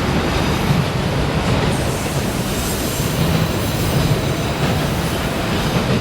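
Freight train cars rolling past on the rails, a steady loud rumble of wheels, with a faint high wheel squeal setting in about two seconds in.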